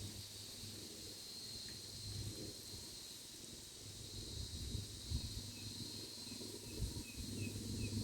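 Outdoor ambience: a steady high insect drone over a low, uneven rumble of wind on the microphone, with a quick run of short, faint high chirps, about three a second, in the second half.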